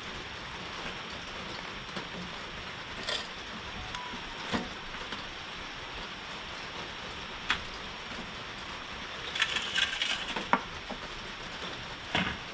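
Heavy rain falling steadily, a dense, even hiss. A few sharp clicks and crinkles of plastic food containers being handled stand out over it, with a quick run of them a little before the end.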